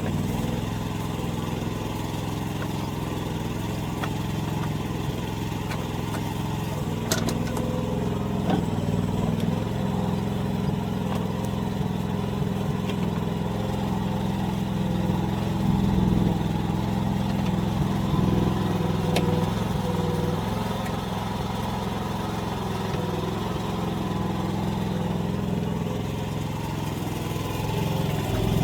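AGT mini excavator's engine running steadily while the machine works, the pitch holding with a slight swell partway through, with a few sharp clicks or knocks now and then.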